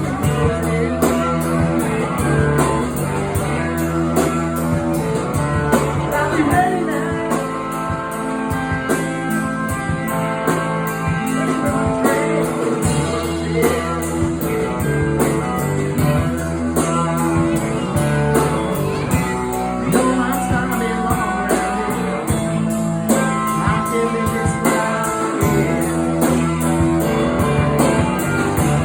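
Blues-rock band music led by guitar, with a steady beat.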